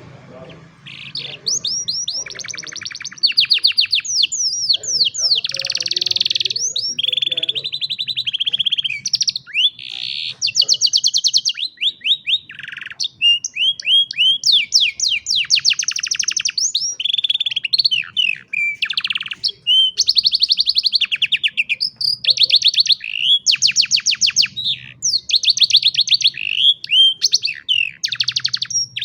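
Domestic canary singing a long, continuous song of rapid trills and quickly repeated notes, starting about a second in.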